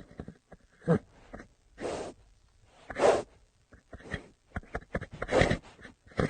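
Horse snorting, short noisy blows of breath coming about once a second, with light clicks between them.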